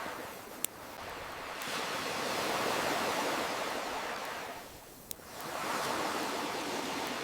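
Ocean waves washing in and drawing back, swelling and fading over a few seconds, with two sharp pops from a crackling wood fire.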